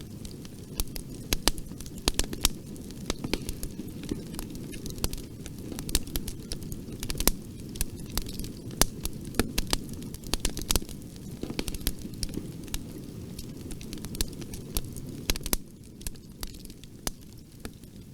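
Bonfire burning, with a steady low rumble of flames and frequent sharp, irregular crackles and pops of burning wood. The rumble eases a little near the end.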